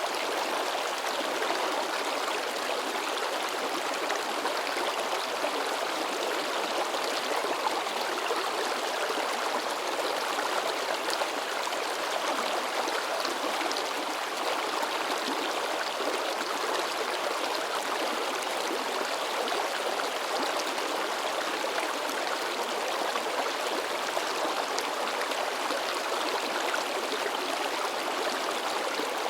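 Shallow river babbling over rocks, a steady splashing rush of water.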